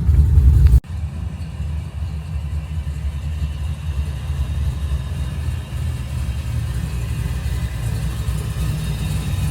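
Vehicle engine running with a steady low rumble. The level drops abruptly under a second in, then the rumble goes on more quietly.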